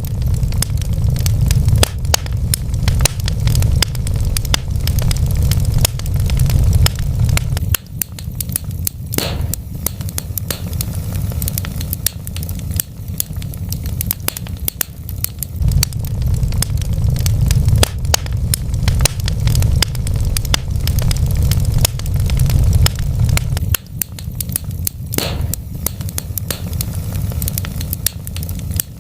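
Wood fire burning in a fireplace: a steady low rumble of flames with constant crackling and snapping of burning logs, and a sharper pop about nine seconds in and again about twenty-five seconds in.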